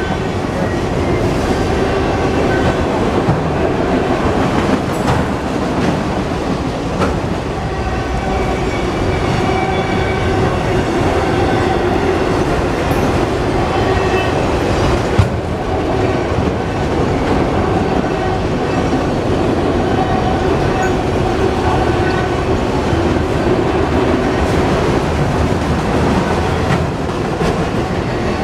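Freight train of autorack cars rolling past close by: a steady rumble of steel wheels on rail, with occasional clicks and clatter as the wheels cross rail joints.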